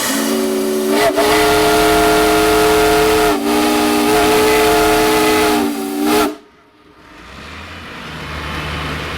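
Steam traction engine's whistle blowing a loud, steady chord of several notes, broken twice for a moment and then cut off sharply about six seconds in. A low rumble builds up afterwards.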